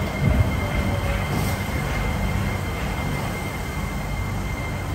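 New Shuttle rubber-tyred guideway train running into the platform: a steady rumble from its tyres and running gear, with an electric motor whine falling in pitch over the first second as it slows.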